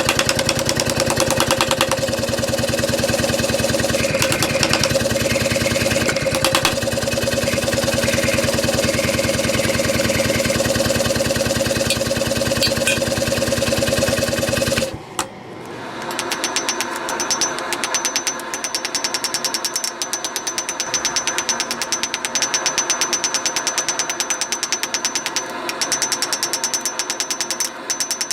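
A powered workshop machine running steadily with a strong hum and a fast even rhythm; about halfway through it stops abruptly and a different, lighter machine takes over with a rapid ticking rhythm and a faint high whine.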